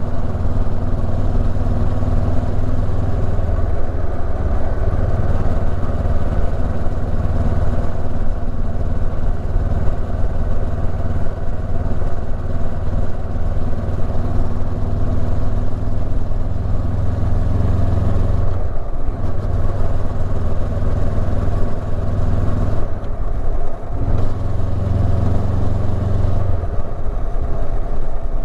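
Honda CB500X's 471 cc parallel-twin engine running steadily as the motorcycle rides along. Its low drone breaks off briefly twice in the second half.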